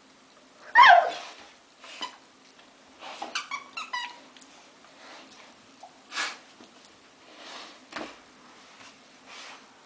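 A squeaky dog toy being squeezed by a dog: one loud falling squeak about a second in, then a quick run of short squeaks between about three and four seconds, with scattered rustles and knocks in between.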